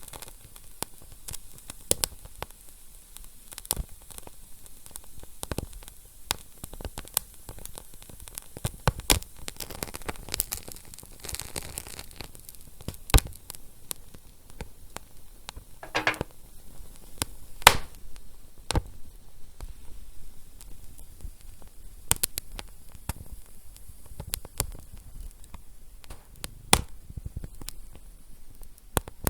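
Wood fire crackling: a steady hiss with irregular sharp pops and snaps, a denser stretch of sizzling about a third of the way in, and a short hiss about halfway.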